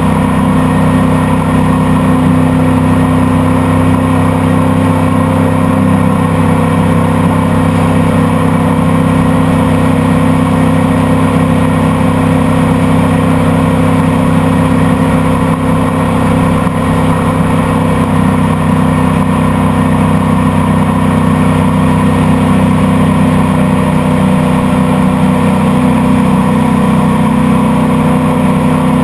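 Boat engine running steadily at a constant speed, with a loud even drone and rushing noise over it.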